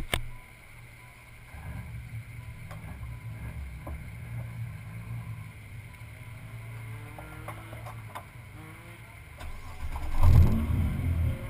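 Car engine idling with a steady low hum, picked up by a camera mounted on the outside of the car. There are knocks of the camera mount being handled at the start, and a louder low burst about ten seconds in.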